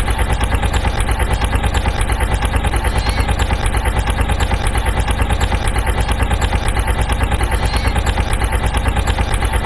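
Vehicle engine sound effect running steadily, a rapid even chugging of about ten pulses a second, that starts and cuts off abruptly like an edited loop.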